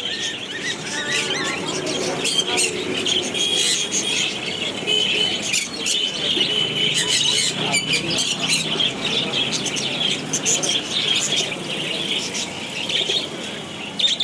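A flock of small caged birds chirping and squawking continuously, many calls overlapping.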